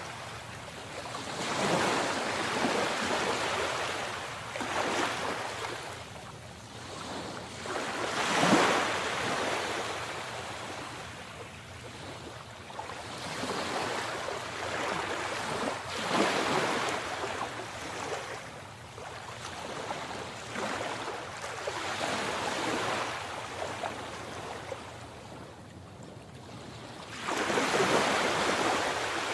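Sea waves breaking and washing up the shore, rising and falling every few seconds, with the biggest swell about eight seconds in and another near the end.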